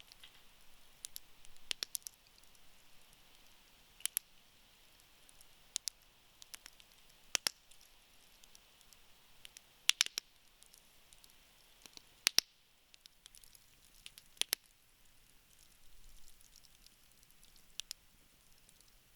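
Wood burning in a campfire pit, crackling: sharp pops and snaps every second or two over a faint steady hiss, with the loudest couple of snaps about halfway through.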